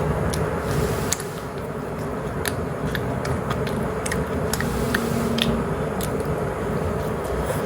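A person chewing mushroom and cheese pizza close to the microphone, with scattered short wet mouth clicks, over a steady low background rumble.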